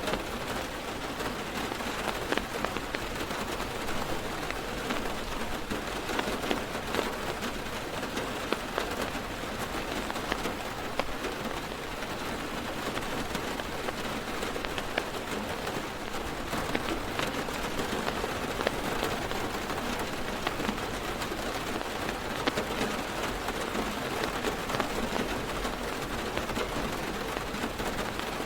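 Heavy rain drumming steadily on a car's roof and windows, heard from inside the car, with many separate drop impacts ticking through the steady hiss.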